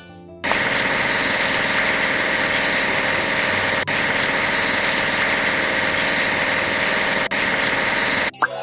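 Steady engine noise of a construction machine, a looped sound effect that starts about half a second in, drops out for an instant twice and cuts off abruptly near the end.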